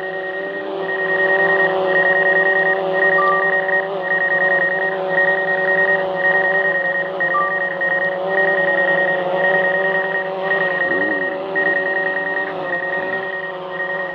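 An electronic warning beep, a high tone repeating about once a second and lasting most of each second, over a steady hum.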